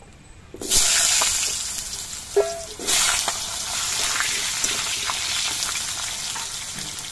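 Potato wedges hitting hot mustard oil in a kadai. A loud sizzle starts about half a second in and slowly eases off as they fry.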